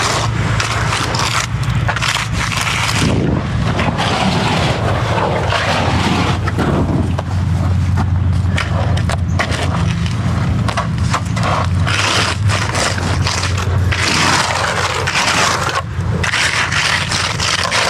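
Rough, irregular scraping and knocking of tools or machinery on gravel or concrete, over a steady engine hum.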